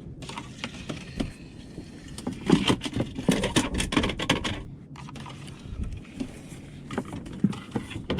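Knocks, clicks and rattles of fishing gear being handled and stowed on a plastic kayak, in short flurries that are busiest around three to four seconds in.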